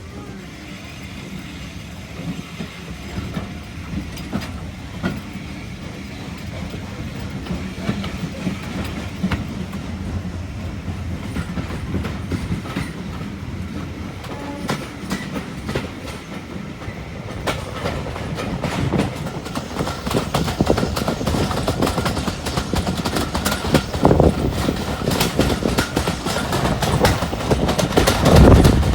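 Heritage train on the Swanage Railway running on the track, its wheels clicking over the rail joints, the sound growing steadily louder.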